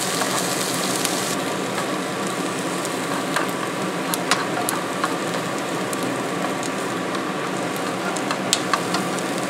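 Pierogi and diced onion sizzling steadily in a frying pan, with a few light clicks of tongs against the pan as the onions are stirred.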